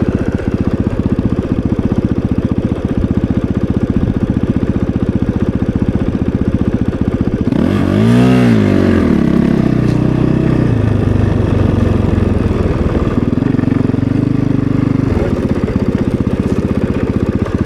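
Snowbike's 450cc single-cylinder four-stroke dirt-bike engine running under throttle. It revs up sharply and drops back about eight seconds in, then pulls on at lower revs.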